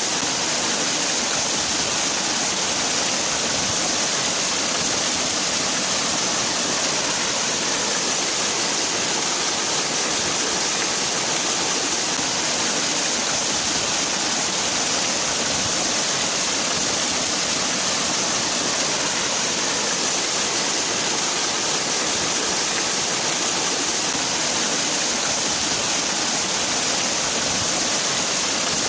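Waterfall: a steady, unbroken rush of falling water, hissy and bright, with no change in level.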